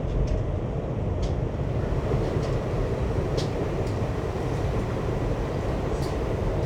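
A train running on its tracks: a steady low rumble, with short high-pitched squeaks now and then from the wheels on the rails.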